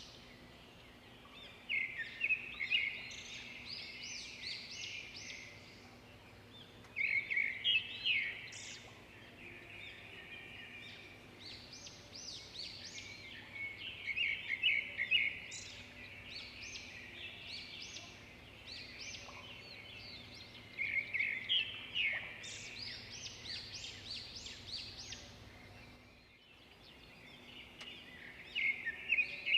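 Several songbirds singing and chirping over one another in quick trills, swelling louder in bursts every few seconds.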